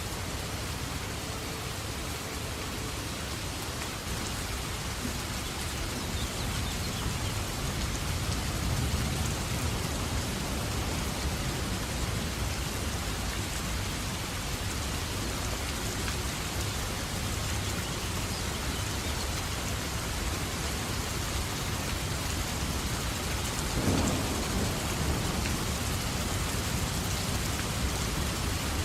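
Steady heavy rain falling in a forest, with low thunder rumbling that swells and fades, and a sharper thunderclap late on that rolls off into rumble.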